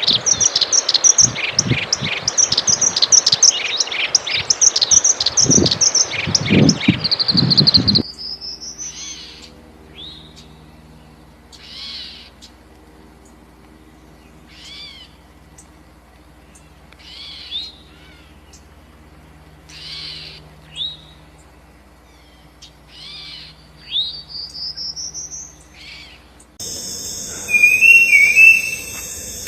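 Birds calling. Dense, loud chirping and twittering for about the first eight seconds. Then, more quietly, separate short calls every two or three seconds, two of them rising whistles. Near the end comes a steady high insect trill with a bird call over it.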